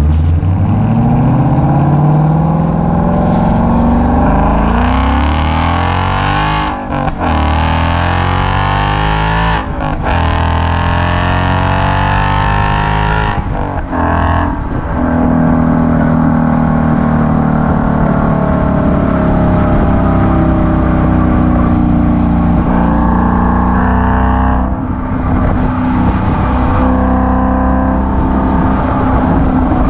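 Ford Mustang GT's 5.0-litre V8 through a Corsa Extreme exhaust, accelerating through the gears: the pitch climbs and drops at each shift, about 7, 10 and 14 seconds in. It then settles into a steady drone.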